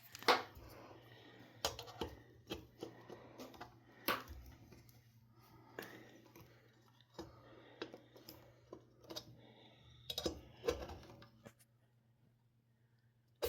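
Screwdriver tip clicking and scraping against the glass light cover and metal housing of a ceiling fan as it is pried at to loosen the jammed cover, in scattered sharp taps.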